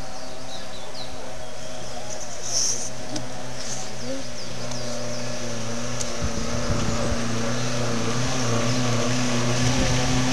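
Car engine approaching, its steady note growing louder toward the end, with small birds chirping in the first few seconds.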